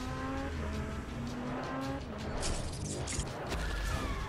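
Race-car engine sound effect revving in a few rising pitch sweeps. About halfway through it gives way to a second-long rush of hiss, like tyres skidding.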